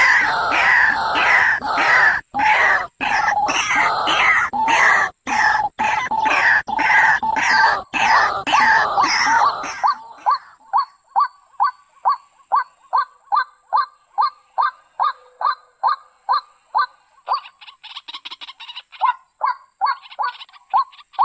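White-breasted waterhen calling. For about the first ten seconds there is a loud, dense run of harsh repeated 'ruak-ruak' calls, broken by a few abrupt short gaps. After that come quieter, evenly spaced single notes about two a second, joined near the end by a faster, higher ticking rattle.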